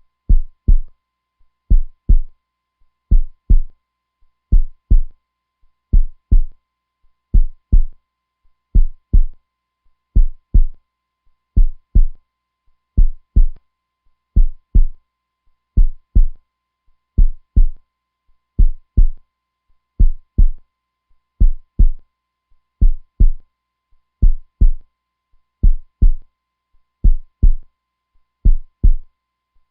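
Heartbeat, strong and constant: low double thuds (lub-dub) repeating evenly about every second and a half.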